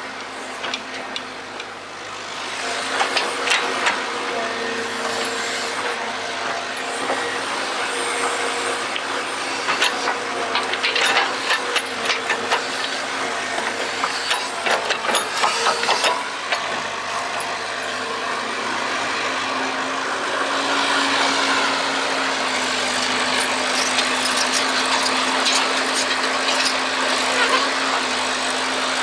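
Excavator running with a steady hum, with clattering knocks and scraping from about three seconds in until about halfway through as it digs, then a steadier running sound.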